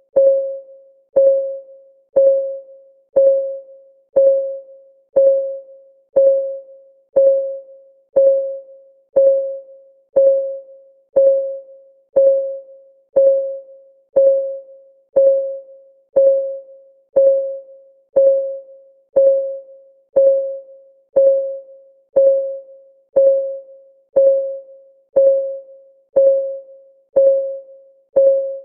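Clock-style ticking of a countdown timer, one tick per second at a steady pace, each tick a short pitched tone that dies away quickly.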